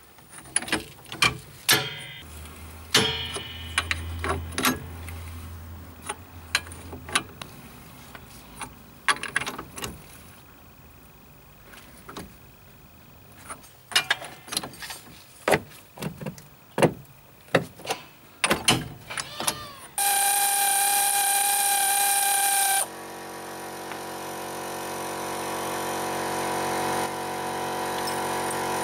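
Clicks and knocks of hand tools working a wheel bearing tool set, screwing its threaded press in to drive the hub into the bearing's inner race. About twenty seconds in, a loud steady hum with several fixed tones starts and lasts about three seconds. It is followed by a quieter steady drone that slowly grows louder.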